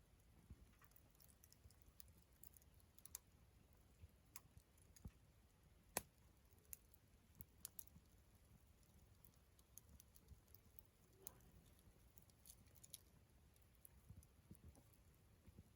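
Faint crackling of a wood campfire: scattered small pops and snaps at irregular intervals, one sharper pop about six seconds in.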